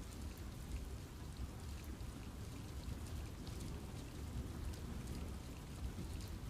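Steady rain falling on forest trees, with scattered drop ticks over a low, even rumble.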